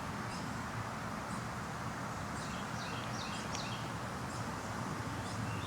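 Wind blowing outdoors, a steady rushing noise on the microphone, with faint, scattered high bird chirps over it.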